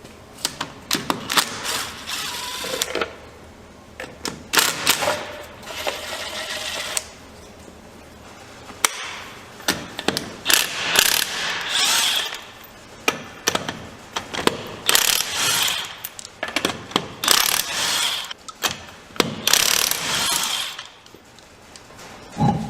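Tools working on the truck's rear axle and brakes: a ratchet wrench clicking in repeated runs of a second or two, with knocks and metal clatter between them.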